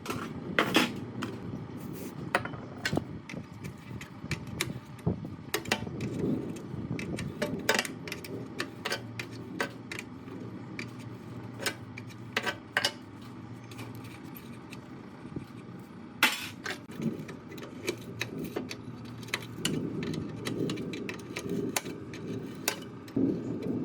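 Metal parts and hand tools clinking and knocking, irregular sharp taps and clanks scattered throughout, with a louder knock about 16 seconds in.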